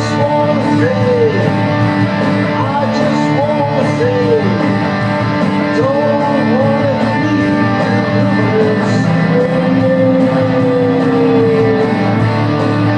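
Rock music with electric guitar and bass. A lead line plays short arching, bent notes, then one long held note that slowly sinks in pitch near the end.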